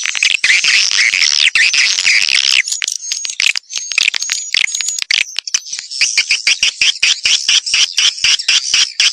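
Swiftlet call-sound recording (suara panggil) used to lure wild swiftlets into a nest house: high-pitched swiftlet twittering, dense and overlapping at first, then thinner with short high whistles, turning about six seconds in into a fast run of chirps at about five a second.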